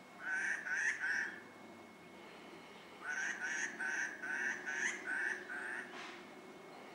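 A bird calling in short, harsh, repeated notes: three in quick succession near the start, then a run of about seven more from about three seconds in.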